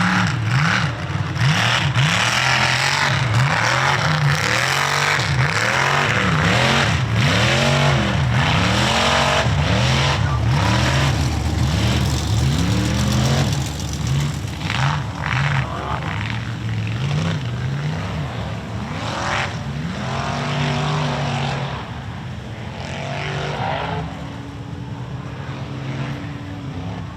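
Mega truck's engine revving hard again and again, the pitch rising and falling with each stab of the throttle, over a steady rushing noise. It is loudest for the first half and eases off in the second.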